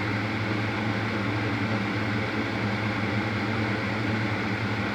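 A steady low machine hum with a constant hiss underneath, unchanging throughout.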